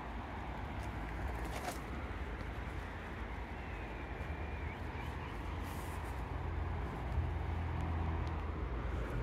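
Steady rain falling in a garden, an even hiss, with a low rumble that grows stronger near the end.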